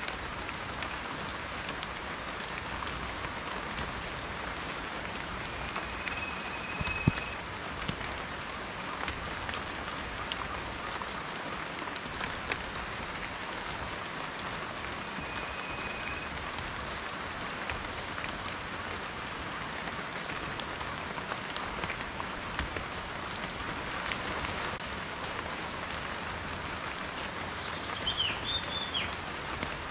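Steady rain falling, with many individual drops ticking and pattering on a surface and one sharper drop about seven seconds in. A few faint, short high whistles come through the rain, with a brief chirp near the end.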